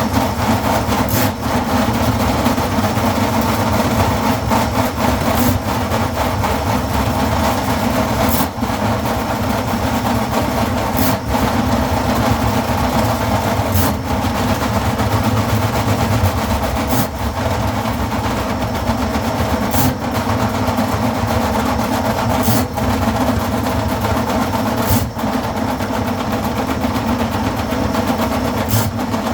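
Drain cleaning machine running steadily as it works through a grease and oil blockage in a kitchen sink drain, with a sharp click about every three seconds.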